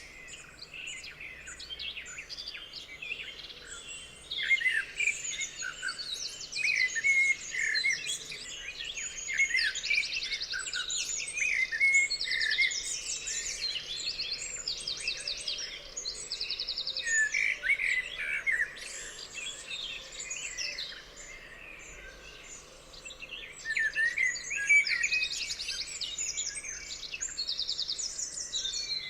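Several songbirds singing together in a chorus of varied chirps and short whistled notes, with fast repeated trills coming back again and again.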